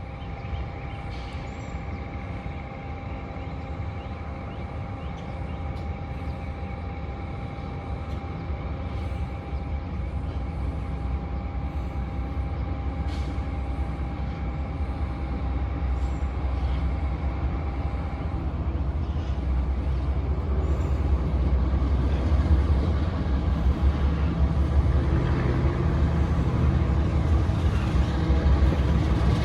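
Diesel freight locomotive rumbling and growing steadily louder as the train approaches. A steady whine runs over the rumble and stops about two-thirds of the way through.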